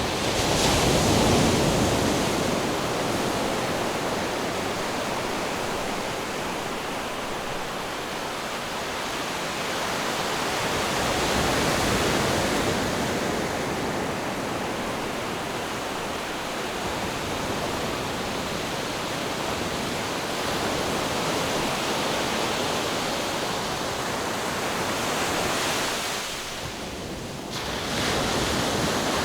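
Ocean surf washing in: a steady rush of breaking waves that swells about a second in and again near the middle, eases off briefly near the end, then rises again.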